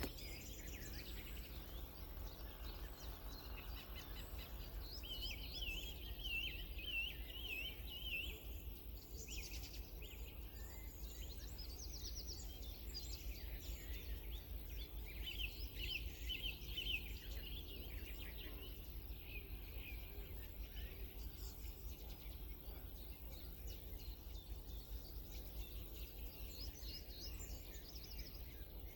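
Songbirds singing: bursts of quick warbling and trilling phrases, busiest about a quarter of the way in and again around the middle, over a steady low rumble.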